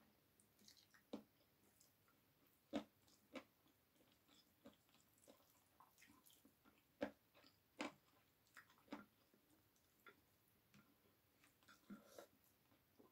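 Faint eating sounds: a person chewing chicken adobo wings and rice eaten by hand, with scattered soft clicks at irregular intervals.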